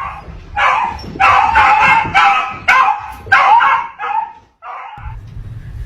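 A dog giving a rapid string of loud, high yips and barks, about eight in a row, which stop about four and a half seconds in. A steady low hum follows near the end.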